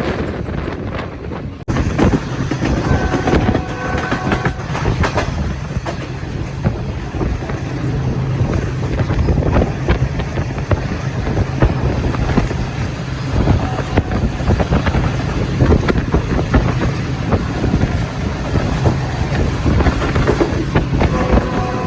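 Passenger train running along the track: a steady rumble with a dense clatter of wheels over rail joints, suddenly louder about two seconds in.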